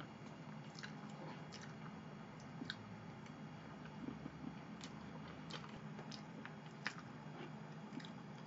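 Close-up eating sounds of soft chocolate cake: quiet chewing and mouth sounds, with scattered sharp light clicks over a faint steady low hum.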